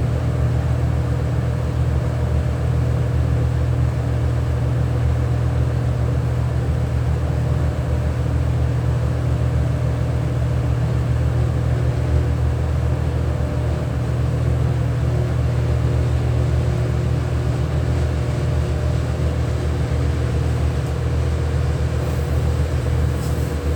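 A machine's motor running with a steady, even low hum and a few steady tones above it, unchanging throughout.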